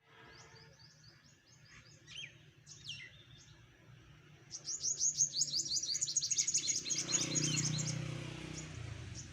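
Small birds chirping: a few scattered calls at first, then from about halfway a dense run of quick, rapid chirps, with a low hum underneath near the end.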